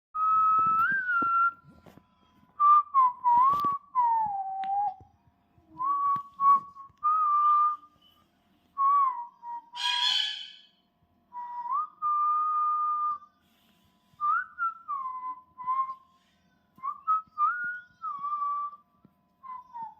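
A parrot whistling a string of short clear phrases that slide up and down in pitch, with gaps between them, and one brief harsh call about halfway through.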